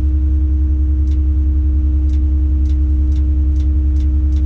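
A crane's diesel engine runs steadily, heard from inside the cab as a loud, even low rumble with a held hum. Light ticks come through on top of it from about a second in, getting quicker until they are about two or three a second.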